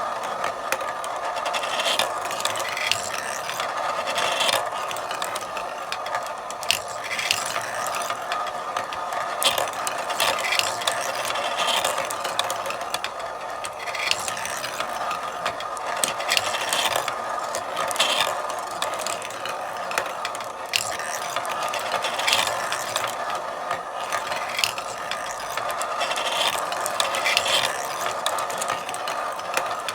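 Marbles rolling and clacking through a marble run: a continuous rolling rattle with many sharp clicks as the marbles hit the track and each other.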